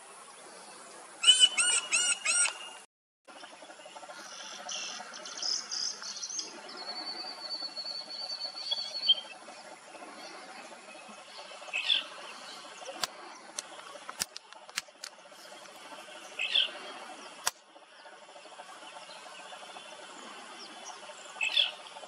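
Wild birds calling in forest: a quick run of loud, repeated ringing notes about a second in, then a high thin song, then three short calls that sweep downward, spaced several seconds apart, over a faint steady background of insects.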